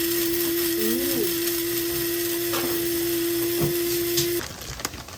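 A small electric motor running steadily with a hum and hiss, cutting off suddenly about four and a half seconds in.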